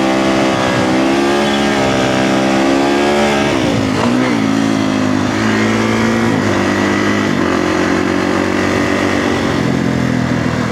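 Kawasaki KX450F dirt bike's single-cylinder four-stroke engine running under way. The note holds fairly steady, then dips sharply and climbs again about four seconds in, with a few smaller dips and rises after.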